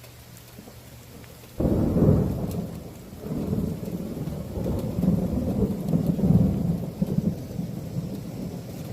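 Thunder: a sudden crack about a second and a half in, then a long low rumble that swells and fades several times.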